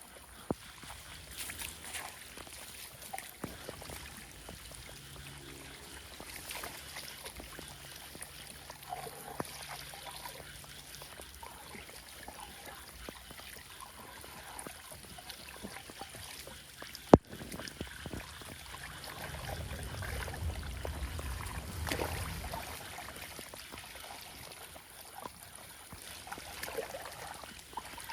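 Flood water flowing and trickling as it drains, with scattered small clicks and knocks and one sharp crack about seventeen seconds in. A low rumble swells for a few seconds around twenty seconds in.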